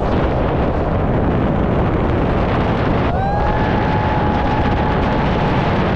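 Wind buffeting the microphone during a fast downhill bike ride. About halfway through, a thin, steady, high-pitched squeal slides up and holds to the end.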